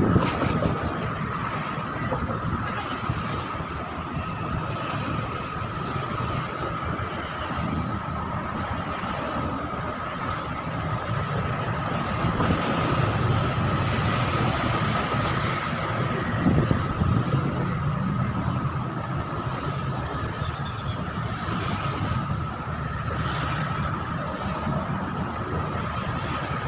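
Engines running steadily, with a low rumble that swells around the middle and a thin, steady high-pitched whine throughout.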